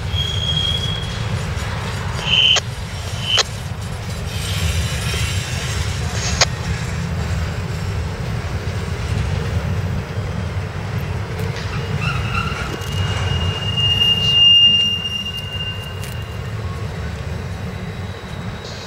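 Intermodal freight train's container flat cars rolling past, a steady rumble of steel wheels on rail with a few sharp knocks. Brief high-pitched wheel squeals come early on, and a longer squeal from about twelve seconds in peaks near the fifteen-second mark.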